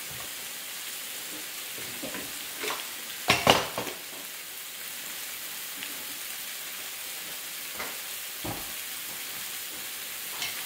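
Sliced bitter melon frying in a pan, a steady sizzle. There are a few knocks of cookware, with a louder clatter about three and a half seconds in.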